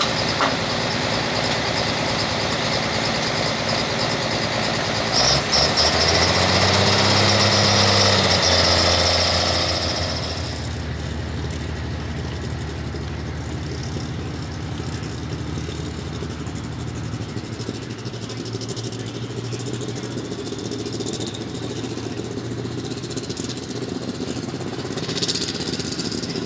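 Diesel super stock pulling tractor running loud at high power, its pitch shifting for several seconds, then throttling back about ten seconds in to a quieter, steady run.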